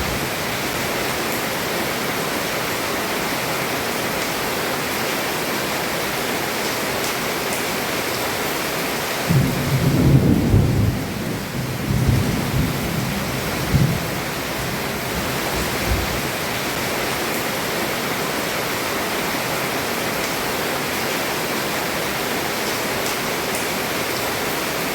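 Heavy rain falling steadily on a roof, with a rumble of thunder rolling for about five seconds in the middle.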